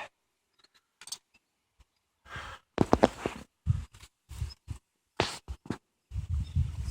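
Hive tool and wooden frame scraping and knocking as a beehive frame is pried loose from the box, in irregular scrapes and knocks from about two seconds in, with a low rumble near the end.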